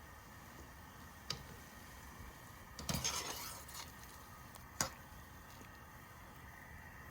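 Cookware and utensils knocking together: a light clink about a second in, a short clattering scrape about three seconds in (the loudest), and a sharp clink near five seconds.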